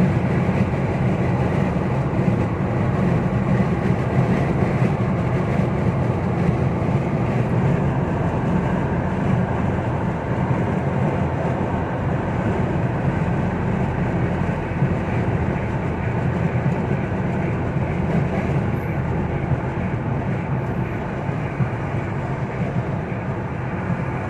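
Steady road and engine noise inside a moving car's cabin at motorway speed, growing a little quieter in the last few seconds.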